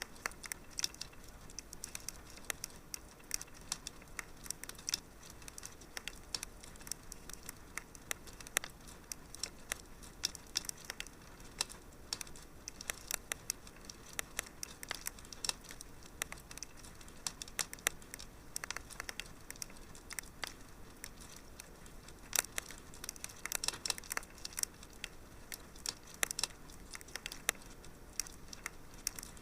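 Wood fire crackling in a fireplace: irregular sharp pops and snaps over a soft steady hiss, with busier clusters of crackles about two-thirds of the way through.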